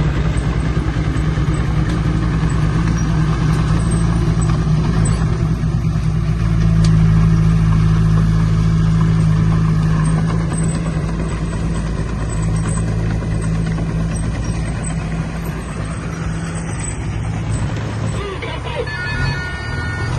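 Heavy diesel engine running steadily under load. It grows louder about a third of the way in and eases off again.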